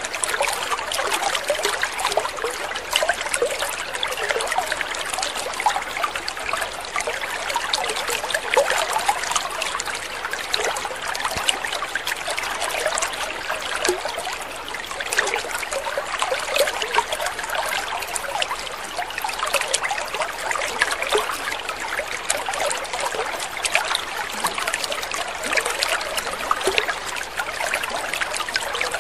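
Water trickling and splashing steadily in a continuous patter of small drops.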